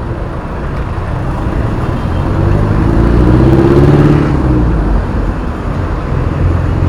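Road traffic heard from a moving bicycle, a steady low rumble. A motor vehicle's engine swells in pitch and loudness as it passes close, about three to four seconds in, then fades.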